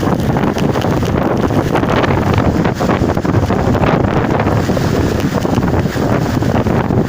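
Strong storm wind blasting across the microphone: loud, continuous rumbling buffeting with constant gusty flutter.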